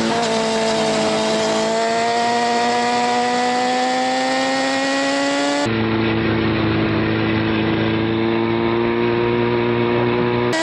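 Sport bike engine running hard, its pitch dipping briefly at the start and then climbing slowly as it accelerates. About halfway through, the sound cuts abruptly to a lower, steadier engine note.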